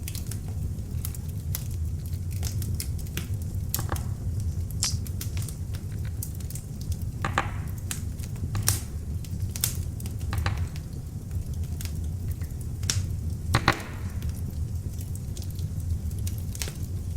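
Beech logs burning in an open fireplace: a steady low rumble of flames with irregular crackles and sharp pops, two of them louder and drawn out with a brief hiss, one near the middle and one later on.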